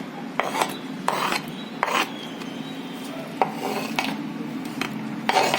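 Chopped tomato, onion and green chilli being scraped and tipped into a mixing bowl: a utensil makes a series of short, irregular scrapes and taps against the bowl and board.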